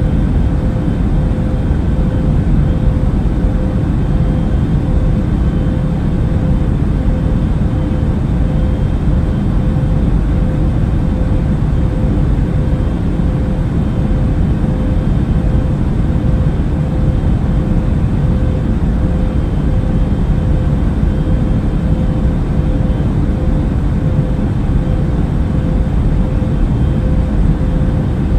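Steady airplane cabin drone in flight: a deep, even rumble of engine and air noise with a faint steady hum above it.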